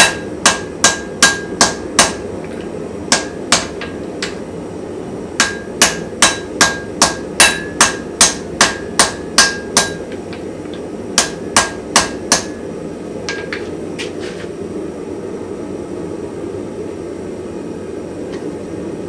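Hammer blows on hot steel over an anvil in quick runs, drawing out a small hammer head, many strikes with a ringing tone. The blows stop about two-thirds of the way through, leaving a steady low rushing noise.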